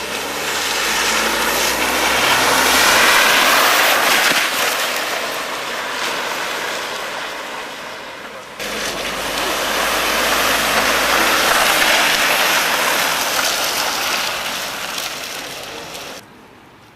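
Motorcycles riding past in two long swells of engine and road noise. Each builds up and fades away over several seconds, and the second starts abruptly about eight and a half seconds in.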